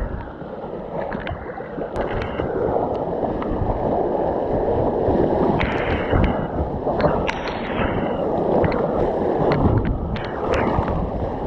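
River water rushing and splashing around a kayak paddling down a fast, high river, with sharp splashes scattered through it. It gets louder over the first couple of seconds.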